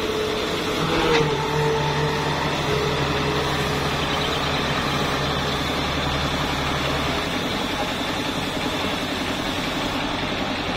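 Diesel engine of a Hitachi UH07 hydraulic excavator running steadily, with a deeper hum under it that stops about seven seconds in.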